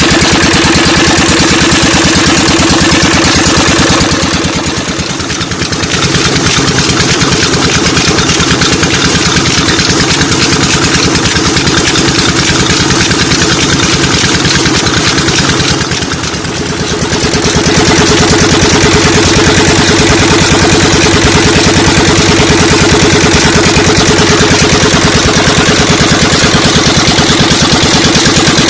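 12 HP Petter single-cylinder diesel engine running steadily with a fast, even beat, belt-driving a tube-well pump. The sound dips briefly twice, about five and about sixteen seconds in.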